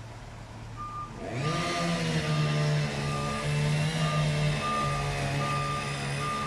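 A heavy diesel vehicle reverses: its engine revs up about a second in and runs steadily under load, while a reverse-warning beeper sounds in short, evenly spaced beeps, a little over one a second.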